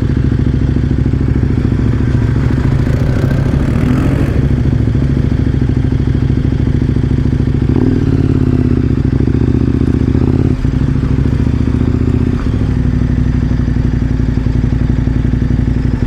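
KTM 1090 Adventure R's V-twin engine running steadily at low road speed while riding, with brief dips in the engine note a couple of times past the middle.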